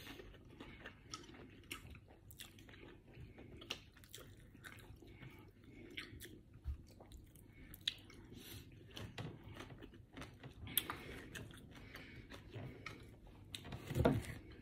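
A person chewing and biting food with chopsticks close to the microphone, with many small wet clicks of the mouth throughout. Near the end there is a single louder thump.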